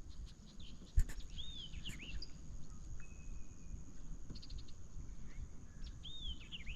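Bird calls out on the water: arching chirps twice, a short quick run of ticks and a held high whistle, over a low rumble. A single sharp knock about a second in is the loudest sound.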